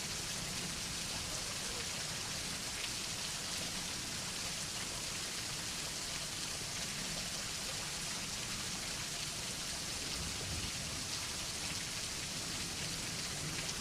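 Steady rain, an even hiss that holds level throughout with no thunderclaps.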